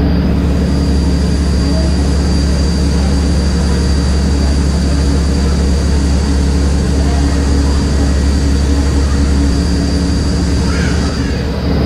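Magic Kingdom ferry boat's diesel engines running steadily underway, a constant low drone with a few steady humming tones.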